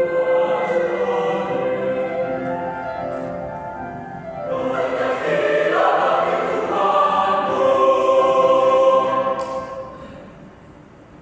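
Youth church choir singing in parts, holding sustained chords; the sound dips about four seconds in, then swells to a loud held chord that breaks off about ten seconds in.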